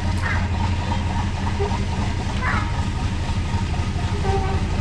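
Passenger ship's diesel engines running steadily at the jetty, a low, even drone. Two brief high chirps sound over it, once just after the start and again about two and a half seconds in.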